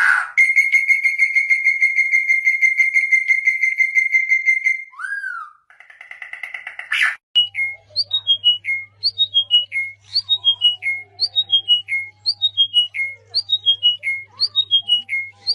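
Bird calls: a long, even trill for about four seconds, then a short note and a brief buzzy call. From about halfway, one short phrase of notes stepping down in pitch repeats regularly, a little more than once a second, over a low mains hum.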